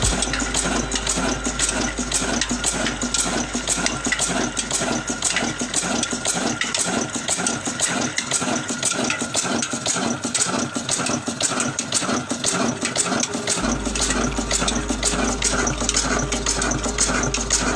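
Old diesel engine running with a rapid, steady clatter.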